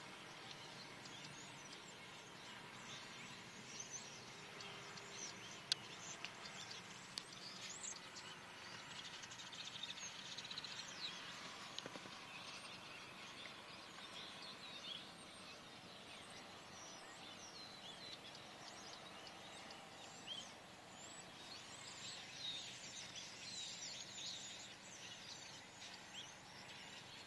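A large flock of birds calling faintly: a dense, continuous chatter of many short chirps and whistles overlapping, with a sharp click about six seconds in.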